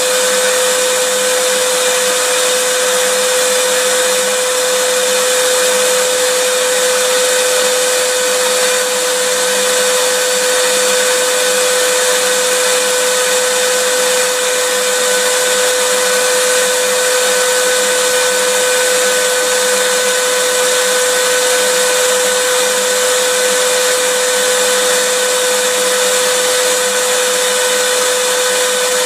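Vacuum cleaner running continuously and unchanging: a steady rush of air with a constant motor whine over it.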